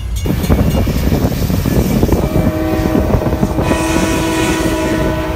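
Passenger train moving off, heard through an open car door, with a loud rumble and clatter of wheels and rush of air. About two seconds in, a locomotive horn starts a long, steady multi-note chord.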